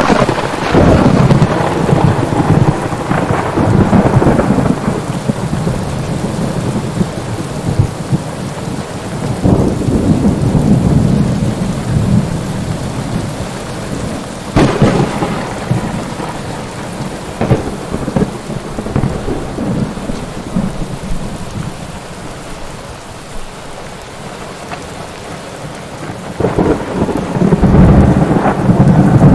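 Rain falling steadily through a thunderstorm. Thunder cracks sharply at the start and rolls into a long rumble, another sharp crack comes about halfway through, and rumbling swells again near the end.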